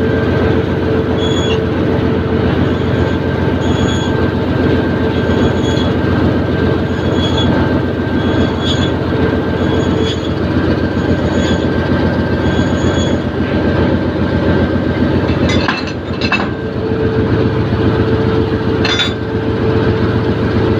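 Diesel locomotive engine running steadily at a station platform, a dense low rumble with steady hum tones. A short high tone repeats about every 0.6 seconds through the first two-thirds, and a few sharp knocks come near the end.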